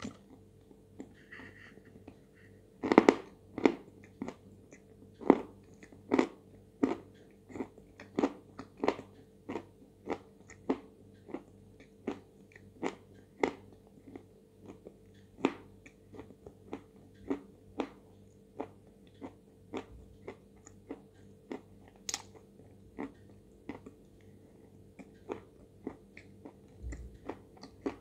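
Close-up biting and crunchy chewing of a dry block of 'White Velour' edible chalk: a sharp loud bite about three seconds in, then a steady run of crisp crunches, about one and a half a second.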